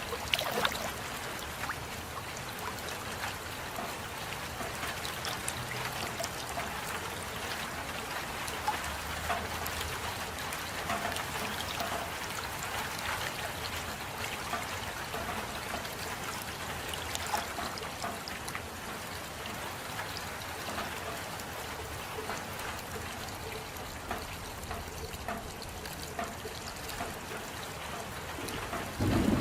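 Steady rain with water trickling and dripping: a constant hiss dotted with many small drop ticks.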